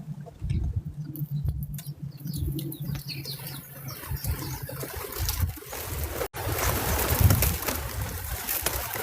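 Doves at a backyard feeder flapping their wings, with rustling that thickens from about three seconds in.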